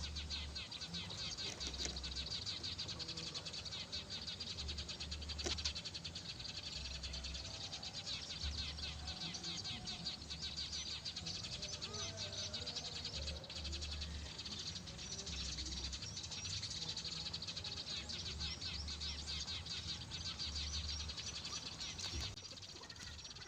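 A dense, steady high-pitched chirping chorus, with a low rumble coming and going underneath.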